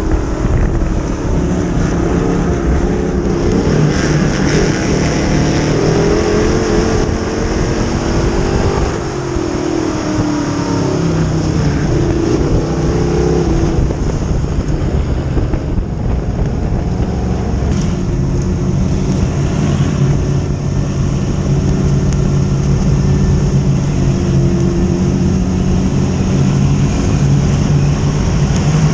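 Dirt-track modified race cars running at speed, the engine pitch rising and falling through the laps.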